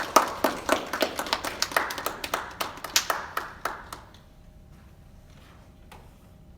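A quick run of sharp strikes, about four a second, that stops about four seconds in, leaving a faint steady hum.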